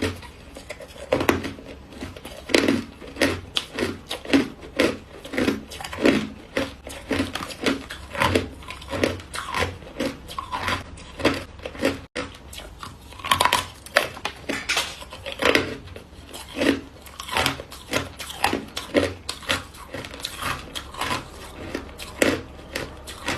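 Hard white ice block being bitten and chewed, one crisp crunch after another at about two to three a second, with a momentary break about halfway.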